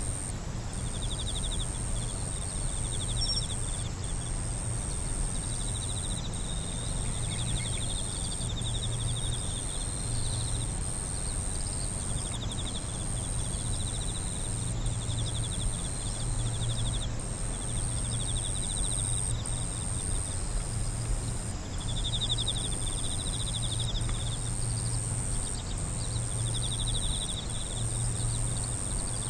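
Insects singing: one keeps up a continuous high, thin trill while another gives finely pulsed trills in phrases of a second or two, repeated with short gaps. A low steady hum runs underneath.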